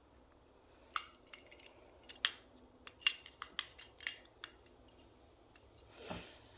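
Toy garbage truck being handled: about a dozen sharp, irregular clicks and clacks of small hard parts, then one softer, duller knock near the end.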